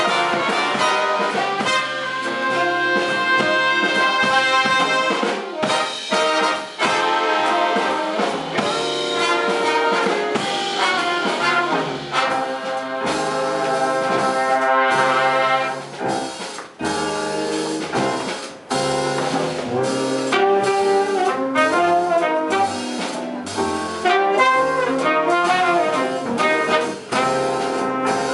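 Big band jazz with the brass section of trumpets and trombones playing together over the rhythm section, breaking into short, clipped ensemble hits in the second half.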